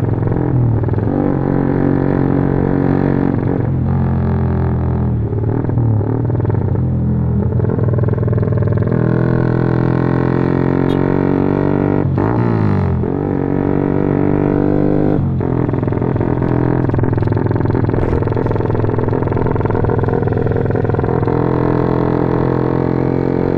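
Honda CB150R single-cylinder engine through a loud Norifumi aftermarket exhaust, riding under throttle. The pitch climbs and drops several times as it shifts gears and eases off.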